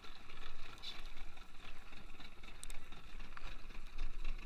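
Small fishing boat at sea: a steady low engine rumble under an even hiss of wind and water.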